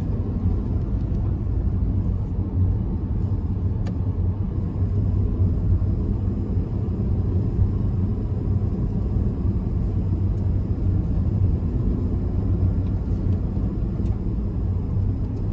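Kei truck driving, with a steady low rumble of engine and road noise.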